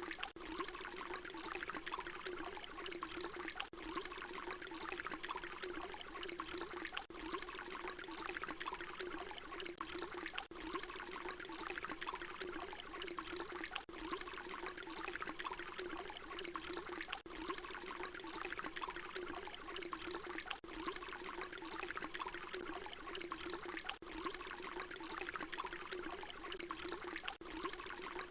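Water pouring steadily. About every three and a half seconds there is a brief dip where the short recording loops.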